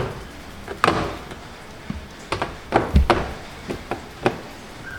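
Hard plastic washing-machine parts knocking and clattering as they are handled and set in place. There is a single sharp knock about a second in, then a quick run of knocks in the second half.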